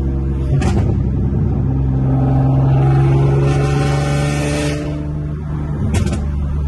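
Car engine and exhaust running steadily under way, swelling louder for a couple of seconds in the middle and then easing off, with a couple of brief knocks.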